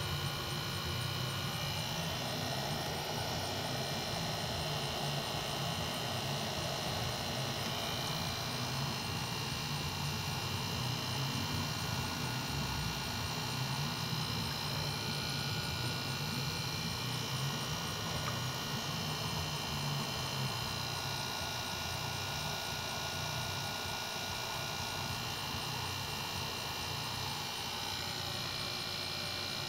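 Steady mechanical hum that keeps on without change.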